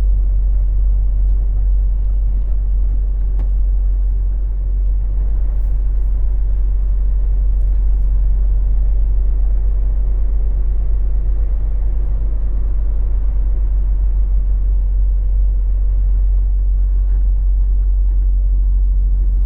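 Semi truck's diesel engine running steadily at low speed with a deep, even rumble while the truck is manoeuvring to park.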